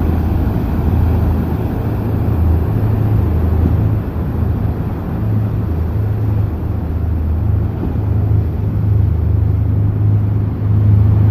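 Boat engines running with a low, steady drone that wavers slightly in pitch, mixed with a rushing noise of water and wind.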